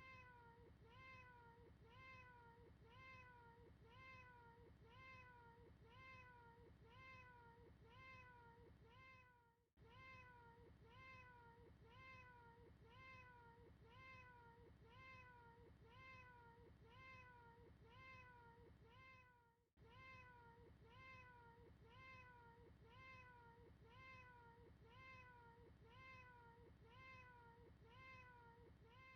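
A short, faint cat meow repeated over and over as a loop, about three meows every two seconds, each rising then falling in pitch. The repetition breaks with a momentary gap twice.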